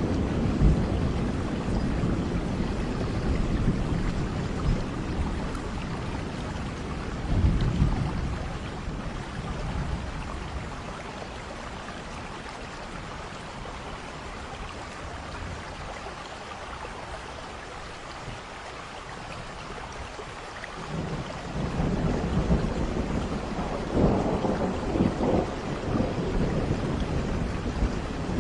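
Thunderstorm: steady rain hiss with rolling thunder, a rumble near the start and another about 7 seconds in, then quieter rain until a longer rumble builds about 21 seconds in, strongest around 24 to 25 seconds.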